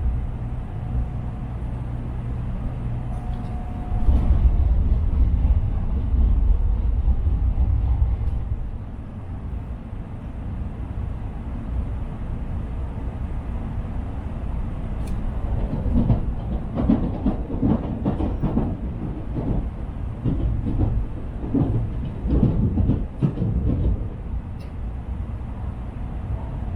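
Inside a Shinkansen passenger car: a steady low rumble from the train, louder for a few seconds early on, with irregular knocks and clunks through the second half.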